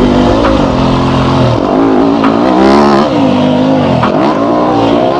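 Yamaha YZ250F dirt bike's 250 cc four-stroke single-cylinder engine revving up and down as it is ridden, its pitch rising and falling several times as the throttle is worked.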